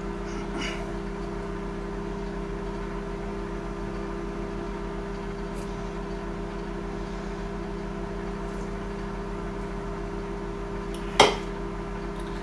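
Microwave oven running on high power, a steady hum, with one sharp click near the end.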